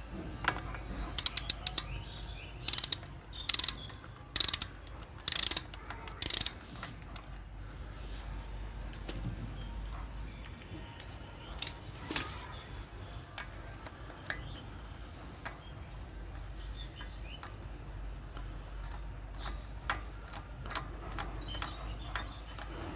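Socket wrench ratchet clicking as a spark plug is loosened: a quick cluster of clicks, then five loud rasping strokes about a second apart, followed by quieter scattered ticks and tool handling.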